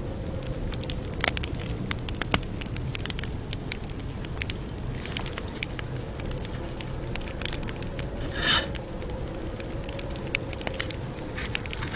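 Campfire crackling over a steady low rumble, with irregular sharp pops and a brief hiss about eight and a half seconds in.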